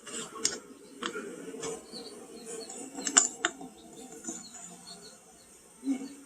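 Short, high chirps repeating irregularly from a small animal, with a few sharp clicks and a low murmur of room noise underneath.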